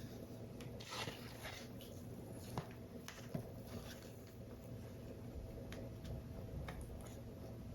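Paper model parts being handled: a brief rustle of paper or card about a second in, then scattered light clicks and taps.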